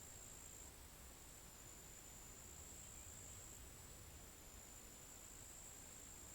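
Near silence with a faint, steady, very high-pitched insect trill running on without a break.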